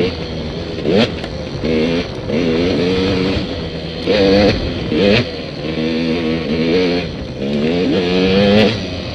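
Dirt bike engine revving over and over, its pitch rising and falling with each blip of the throttle.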